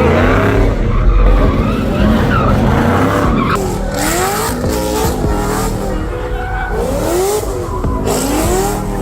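Car engine revving up and down again and again, with tires squealing and spinning in a burnout, the tire hiss growing louder a few seconds in.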